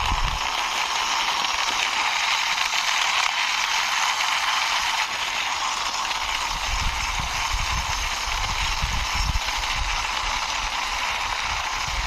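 A plastic toy Power Beko pushed by hand, its wheels and gears rolling with a steady gritty rattle over a hard, rough surface, with a few low thuds in the second half.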